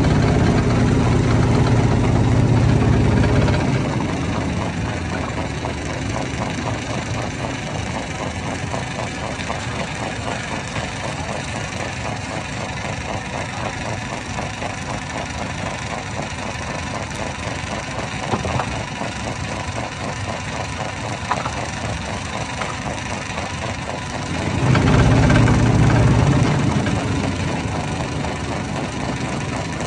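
Stone-crushing hammer machine running steadily with a fast, even rhythm, its low drone swelling louder twice: for the first few seconds and again for about two seconds near the end.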